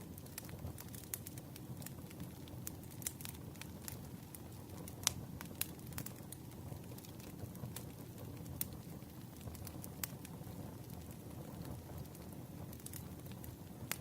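Campfire crackling: irregular sharp pops and snaps over a low steady rumble of burning wood, with one louder pop about five seconds in.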